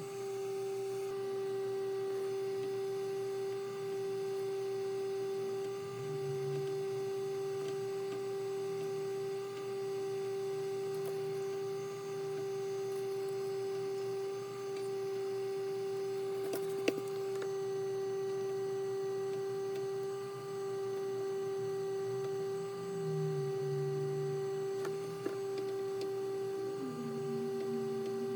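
A steady electronic tone with fainter overtones, dipping briefly in loudness about every two seconds; a second, lower tone joins near the end.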